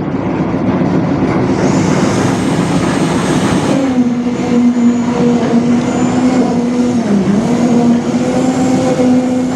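A machine's engine running loud and steady. Its hum rises and settles about four seconds in, then dips briefly about seven seconds in, as if under changing load.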